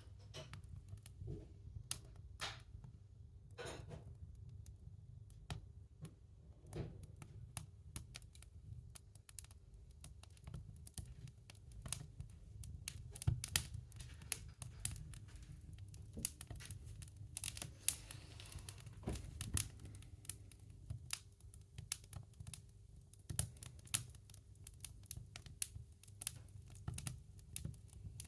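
Irregular crackles, snaps and rustling from tinder and kindling in a woodstove as a fire is being lit, with sharp clicks at uneven intervals over a low steady hum.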